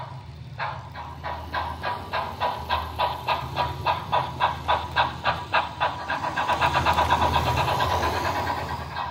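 Steam-locomotive exhaust chuffs from the sound decoder of a Märklin H0 model of the DB class 10, quickening from under two a second to about four a second until the beats run together, as the locomotive accelerates.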